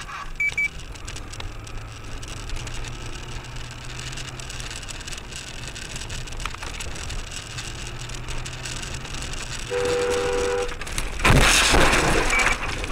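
Steady road and engine noise of a moving car, then a car horn sounding for about a second, followed at once by a loud noisy impact that sounds like a collision.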